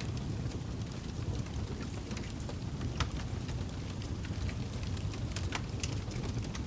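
Campfire burning: a steady low rumble of flames with frequent irregular crackles and pops from the wood, one sharper pop about three seconds in.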